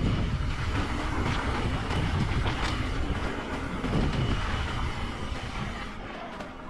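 Mountain bike ridden fast on a dirt trail: wind rushing over the camera's microphone, tyre noise on dirt, and the bike clattering over bumps.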